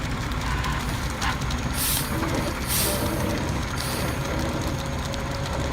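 Cement mixer truck running with a steady low rumble, broken by three short hisses about two, three and four seconds in.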